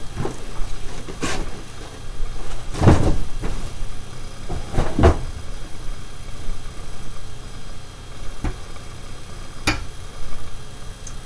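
Scattered knocks and clunks of scooter parts being handled as the handlebars are pushed into the bar clamp, the loudest about three and five seconds in.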